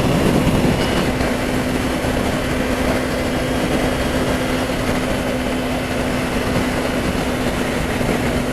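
Kawasaki Ninja 300 parallel-twin engine running at a steady, unchanging speed, its even hum over a constant rushing noise.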